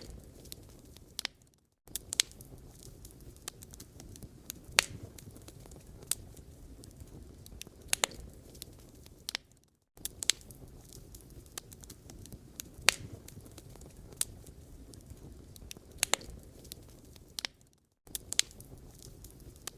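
Wood fire in a fireplace crackling, with sharp irregular pops over a low steady rumble of burning. The sound drops out briefly to silence three times, about every eight seconds, at the seams of a looped recording.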